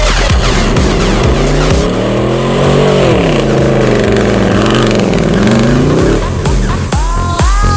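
Chevy V8 with true dual glasspack exhausts revving: the engine note climbs to a peak about three seconds in, drops, and rises and falls again before fading out. An electronic dance beat thumps under it at the start and comes back near the end.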